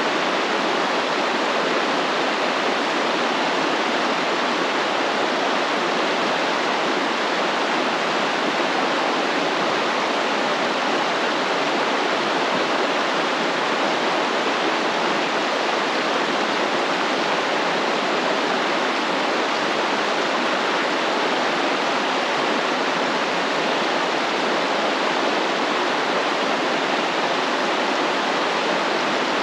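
Stream water flowing steadily over rocks, a continuous even rush.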